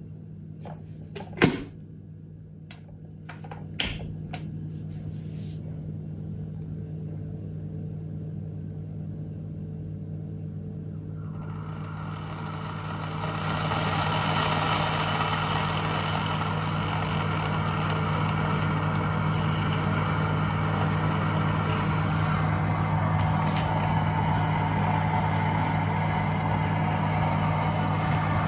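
Kettle heating water: two sharp clicks in the first few seconds over a steady low hum. About twelve seconds in, a rushing hiss rises and holds as the water comes towards the boil.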